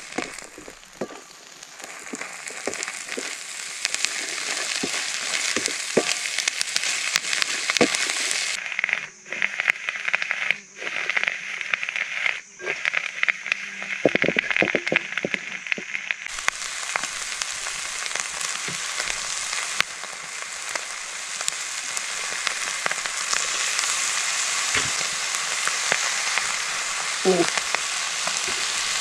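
Egg and green vegetable stems sizzling in a hot wok over a wood fire, with short clicks and scrapes of a ladle against the pan as the food is stirred.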